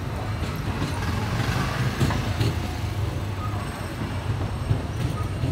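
Disneyland Railroad train heard from an open passenger car: a steady low rumble with a few sharp clicks.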